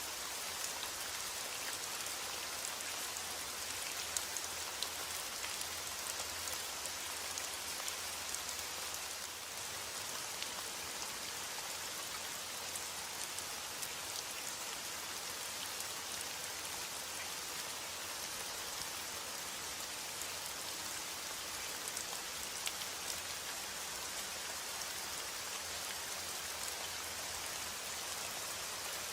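Steady rain falling, an even hiss with scattered ticks of individual drops hitting a surface.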